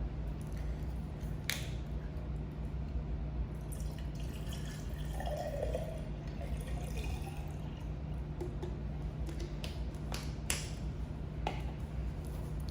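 Steady low room hum with a few light clicks: one about a second and a half in and a couple more near the end.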